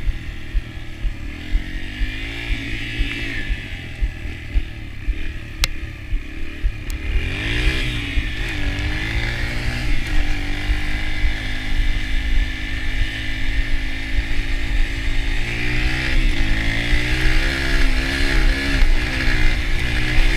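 Yamaha TT-R125 dirt bike's single-cylinder four-stroke engine running on the move, its pitch rising and falling as it is revved, with a sharp climb about seven seconds in.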